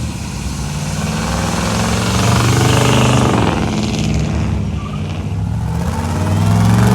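Car engine accelerating hard, its revs climbing over the first three seconds and then dropping away, with the revs rising again near the end.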